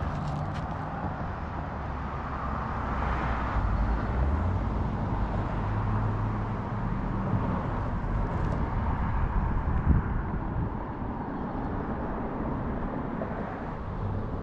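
Outdoor ambience dominated by a low, steady vehicle engine hum whose pitch shifts slowly, over an even rushing noise, with a single brief knock about ten seconds in.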